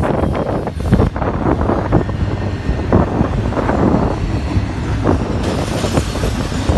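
Intermodal freight train rolling past: a steady rumble of wheels on rail with frequent clanks and knocks. A higher hiss joins a little over five seconds in.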